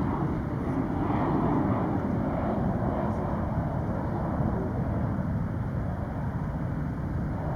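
Steady low rumble of distant jet aircraft around the airport.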